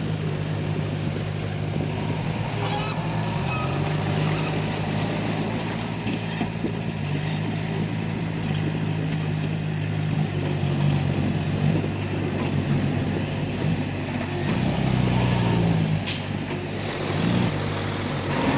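Komatsu D31P bulldozer's diesel engine running under working load, its pitch shifting up and down, with one sharp click about sixteen seconds in.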